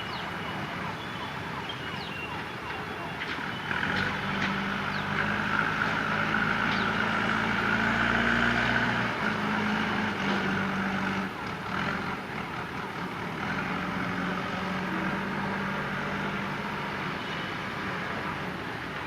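WDG4D diesel locomotive engine running as a train passes, its low drone swelling about four seconds in, loudest near the middle, then easing off.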